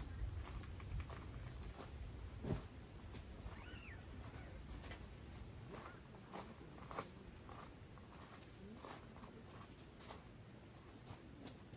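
Steady, high-pitched insect chorus of crickets chirring without a break, with a few soft knocks and clicks scattered through it.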